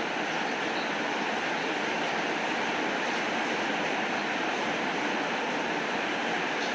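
Steady rainfall, an even hiss with no change in level.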